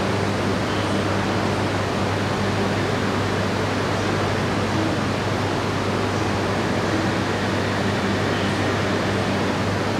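Steady rushing noise with a low hum from E5 series Shinkansen trains at a station platform, one of them slowly creeping in to its stop.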